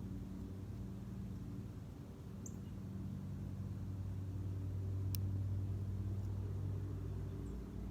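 A distant engine running with a low, steady hum that swells slightly partway through. A brief high chirp comes about two and a half seconds in, and a sharp click about five seconds in.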